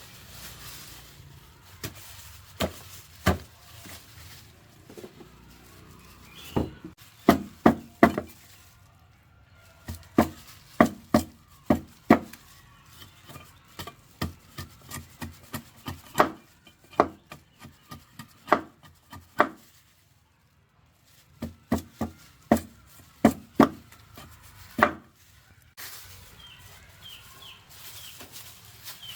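Repeated chopping strikes of a blade hacking into something firm. The blows come in quick runs of several, with short pauses between runs, and stop for a moment about two-thirds of the way through.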